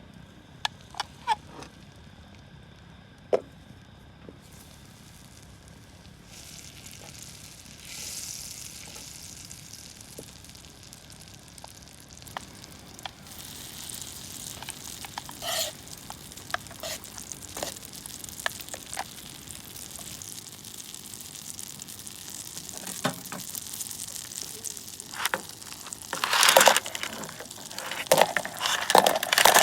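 Food frying in a pan. A few light clicks of utensils come first, then sizzling starts a few seconds in and builds. Louder bursts of sizzling and stirring come near the end.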